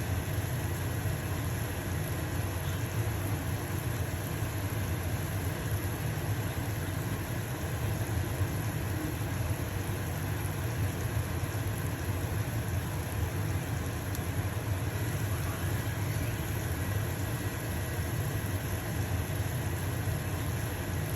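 Stove-top exhaust fan running with a steady low hum, over the sizzle of a pancake frying in a pan.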